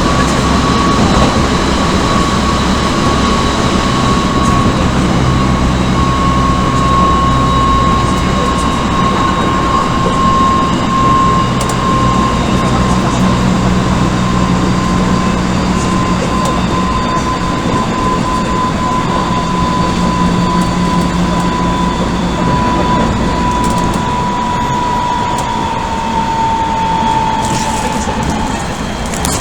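Odakyu 1000 series electric train with Mitsubishi GTO-thyristor VVVF drive running at speed, heard inside the car: steady rail and running noise with a whine that slowly falls in pitch and cuts out near the end.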